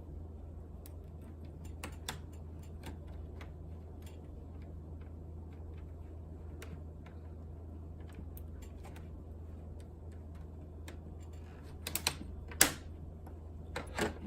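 Scattered small clicks and taps of hands working on a laptop's internal parts and drive, with a few louder knocks near the end, over a steady low hum.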